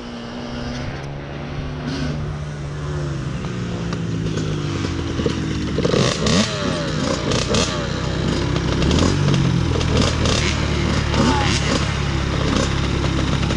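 Dirt bike engines running, their pitch rising and falling with the throttle, getting steadily louder. A second engine overlaps from about halfway through.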